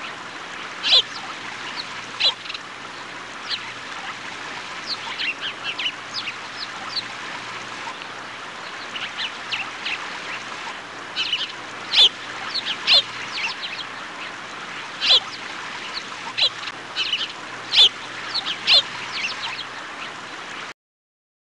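Birds calling: many short, sharp high calls, irregular and overlapping, over a steady hiss and a faint low hum, all cutting off suddenly near the end.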